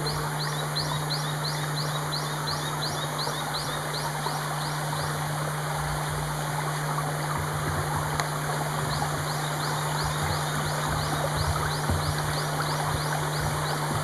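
Forest ambience: a steady hiss with a low hum under it, over which a bird sings two runs of quick, high, downward-slurred notes, about three a second, each run lasting four to five seconds.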